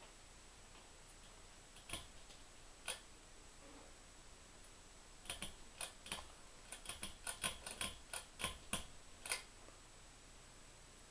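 Sharp clicks from a ceiling fan's switch being worked: two single clicks, then a quick irregular run of about a dozen. No fan motor is heard running.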